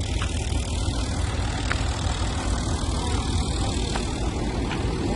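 Heavy tractor diesel engine running steadily, a low, even rumble.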